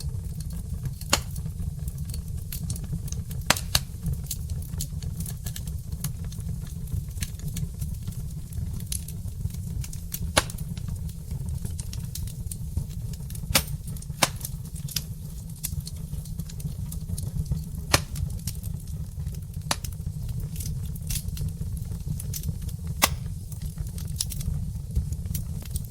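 Wood fire burning in a fireplace: logs crackling and popping irregularly, with a few louder pops, over a steady low rumble.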